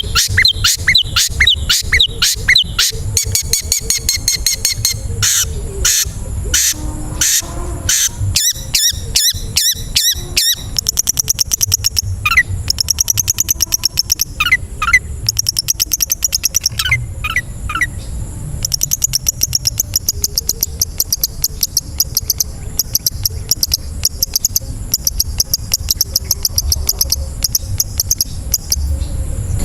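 Long-tailed shrike (cendet) singing a loud, fast, varied song of rapid repeated chirps and trills packed with mimicked notes, over a steady high-pitched tone.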